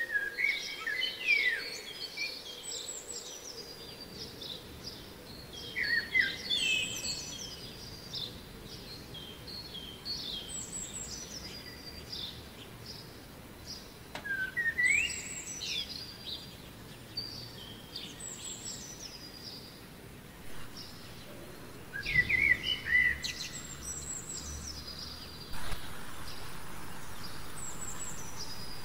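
Songbirds singing, short descending whistled phrases that repeat every few seconds. A steady hiss comes in abruptly near the end.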